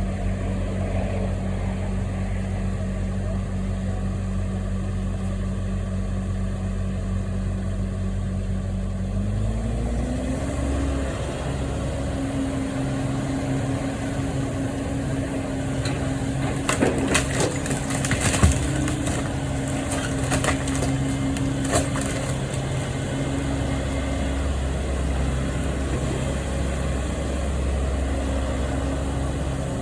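Engine of a demolition machine running steadily, stepping up in pitch as it revs about ten seconds in, with a series of sharp knocks and cracks around the middle as material breaks.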